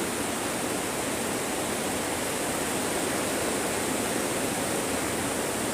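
Rain pouring steadily on the roof of a high tunnel greenhouse, heard from inside as an even, unbroken hiss.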